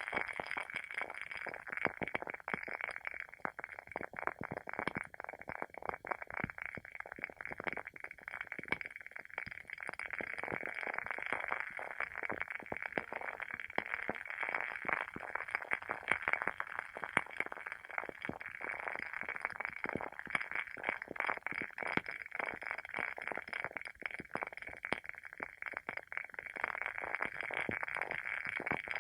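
WoodWick candle's wooden wick burning with a continuous fine crackling: many small irregular pops a second, with no pause.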